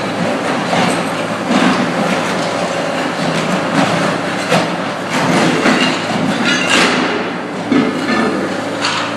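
Bobcat 185 skid steer's diesel engine running steadily under load while its floor scraper blade scrapes and cracks ceramic tile and carpet off a concrete floor, with irregular grinding and clattering over the engine hum.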